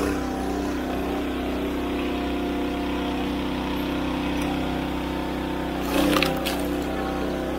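Small engine running steadily at an even speed, with a brief clatter about six seconds in.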